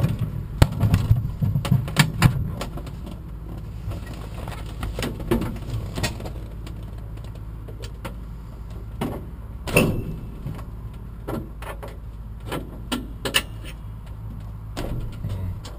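Steady low hum of the tow plane's engine idling, with scattered sharp clicks and knocks of handling in the glider's cockpit.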